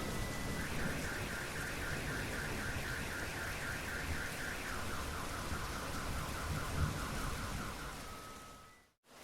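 Steady rain with an electronic alarm sounding over it: fast repeating chirps, about five a second, that drop to a lower pulsing tone about halfway through. The rain and the alarm fade out near the end.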